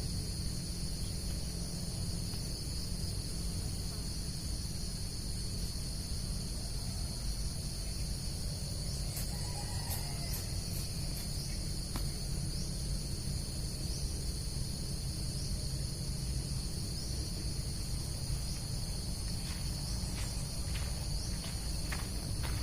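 Outdoor insect chorus, a steady, unbroken high-pitched chirring in two pitch bands, over a low rumble. A few faint clicks come about halfway through and again near the end.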